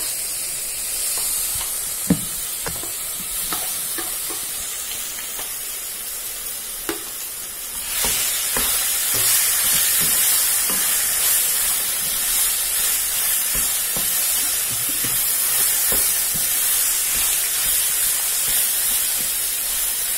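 Grated coconut sizzling as it fries in hot oil with the tempering spices in a nonstick kadai, while a wooden spatula stirs it and scrapes and taps against the pan. The sizzle grows louder about eight seconds in.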